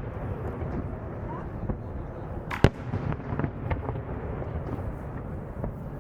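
Fireworks display: one loud bang of a bursting shell about two and a half seconds in, with scattered smaller pops and crackles over a steady low background noise.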